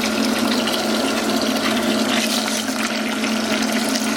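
Small submersible pump humming steadily as it circulates vinegar through a tankless water heater to descale it, with water running through the hoses.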